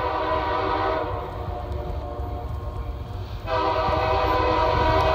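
Norfolk Southern SD40-2 diesel locomotive's air horn sounding a steady multi-note chord over the low rumble of the passing train. The chord is held loud, eases off about a second in, and blasts loud again about three and a half seconds in.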